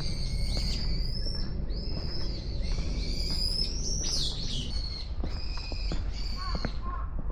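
A bird calling in a series of long, high whistled notes of about a second each, one of them sweeping down about four seconds in.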